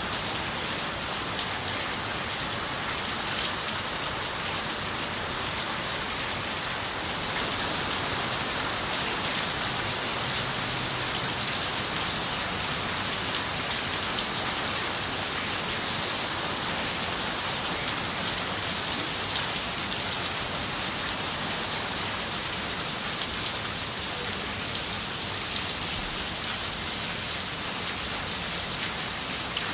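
Steady rain falling on a window, an even hiss of drops with a few single drops standing out. It grows a little heavier about seven seconds in.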